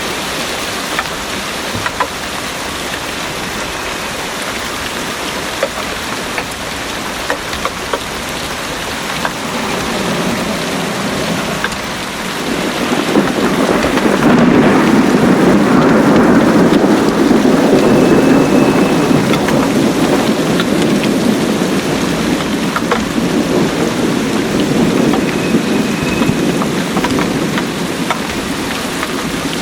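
Heavy rain falling steadily, with scattered individual drops ticking. About twelve seconds in, a long roll of thunder swells up, is loudest a few seconds later, and slowly dies away.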